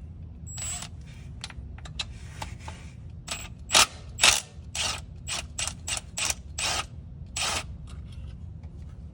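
Ratchet wrench clicking through a string of short strokes, irregularly spaced, the two loudest about four seconds in, over a steady low hum.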